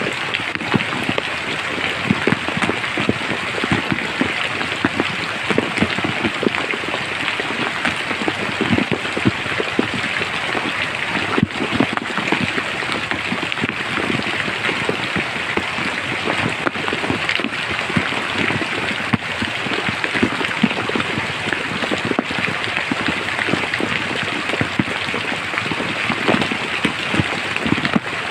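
Steady rain falling in a forest: a dense, even patter of drops over a continuous hiss.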